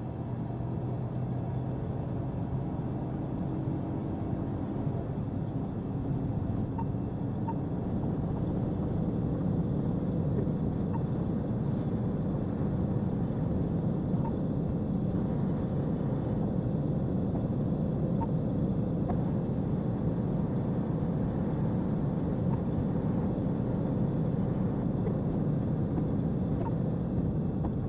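Steady rumble of a vehicle at high speed during a police pursuit: engine and road noise that grows slightly louder after the first few seconds.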